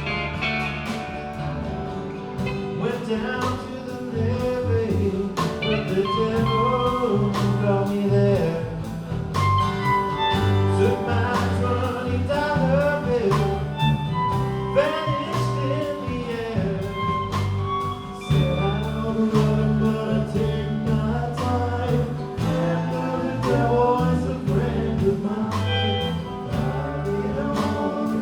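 Live band playing a song: guitar and bass over a steady drum beat, with a sung melody.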